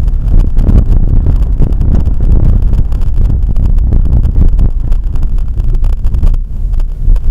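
Blizzard wind buffeting the microphone: a loud, low, gusting rumble.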